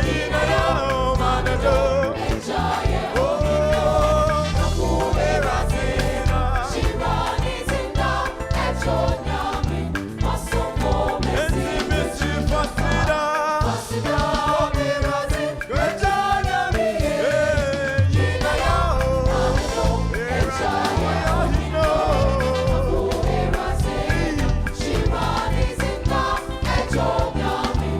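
Live gospel worship music: voices singing together over a band with a steady beat.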